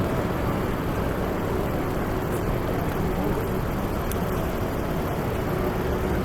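Steady road and traffic rumble mixed with wind buffeting the microphone, an even noise with no distinct events.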